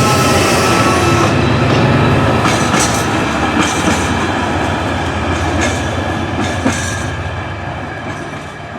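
Two Class 68 diesel-electric locomotives and a single nuclear flask wagon passing. The engine drone carries a few sharp wheel clicks over rail joints and fades steadily as the train moves away.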